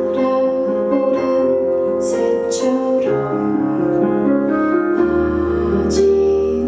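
Live piano-led pop ballad music with sustained chords. A low bass note comes in about five seconds in, and there are a few brief bright hissing accents.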